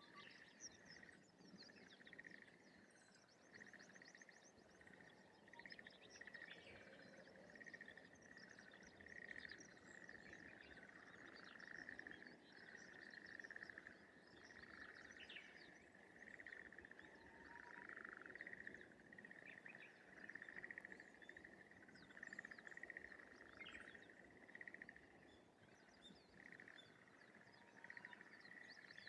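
Faint chorus of frogs in a rice paddy, many calling at once in overlapping pulsed trills that rise and fall in waves, with occasional short, higher chirps above them.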